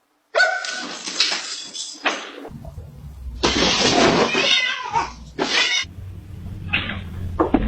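A pet animal crying out in several loud bursts, with abrupt cuts between short clips.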